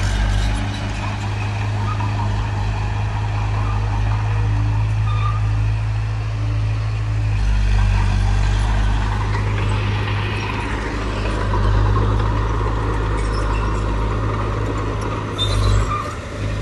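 Heavy diesel engine of earthmoving equipment running steadily under load, with a deep, even engine note.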